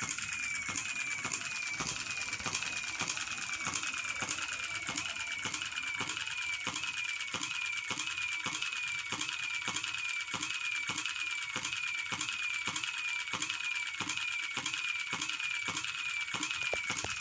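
Model hit-and-miss engine running with an even beat of knocks, about one and a half a second, each carrying a short falling high squeak.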